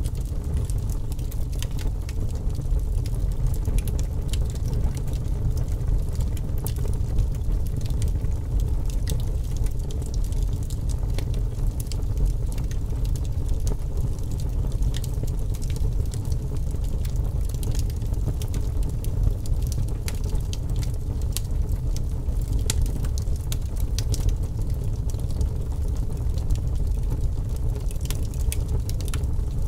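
Wood fire crackling in a fireplace, with sharp irregular snaps over a steady low rumble.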